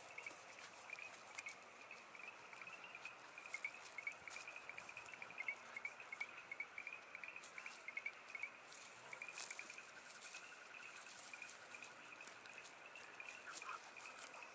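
Faint outdoor ambience: small high chirps from a calling animal repeat two or three times a second over a low hiss, with scattered clicks.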